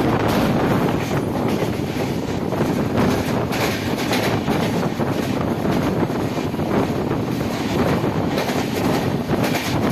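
Passenger train running along the track: a steady rumble with the wheels clattering over rail joints now and then.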